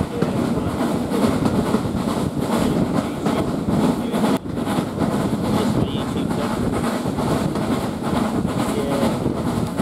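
Steady rumble and clatter of a railway carriage's wheels running along the track, heard from inside a moving heritage train.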